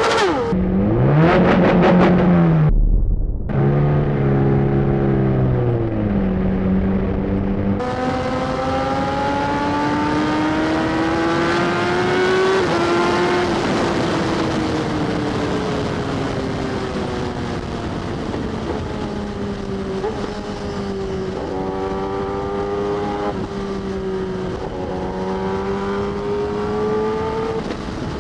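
Sportbike engine pulling under acceleration, its pitch rising quickly then stepping and gliding up and down with throttle and gear changes, over steady wind rush. The pitch rises steadily for a few seconds about a third of the way in, then falls away slowly and holds roughly level with small wobbles.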